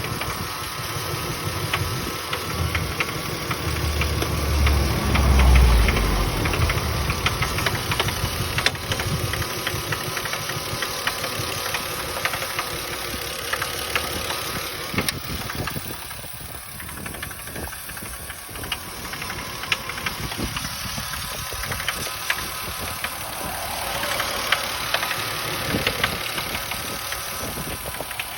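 Toyota 2JZ-GE straight-six engine running with a rapid knocking from the intake manifold's flap valve, the fault this sound is the sign of. The engine swells louder and deeper briefly about five seconds in.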